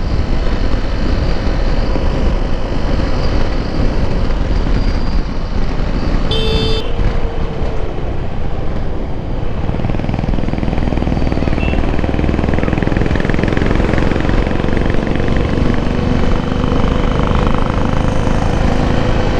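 Motorcycle riding at road speed: steady engine and road noise, with a short vehicle horn toot about six seconds in.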